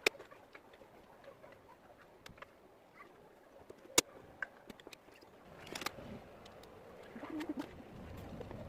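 A pigeon cooing low in the background, with scattered sharp clicks and taps: a loud click right at the start and another about four seconds in.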